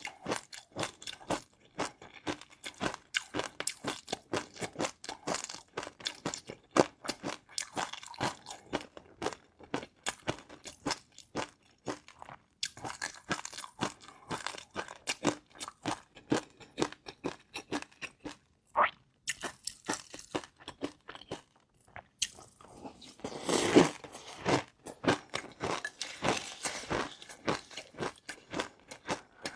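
Close-miked crunching and chewing of crunchy food, rapid irregular crackles throughout, with a louder burst about three-quarters of the way in.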